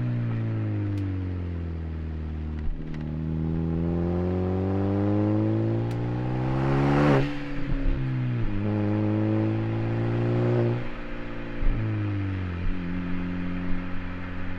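Exhaust of a Hyundai Genesis Coupe's turbocharged 2.0-litre four-cylinder with a cat-back exhaust, its pitch rising and falling with the revs. About seven seconds in it climbs steeply to a brief rushing hiss and falls back, holds steady, then drops again near eleven seconds and settles at a lower steady note. A few sharp clicks are heard along the way.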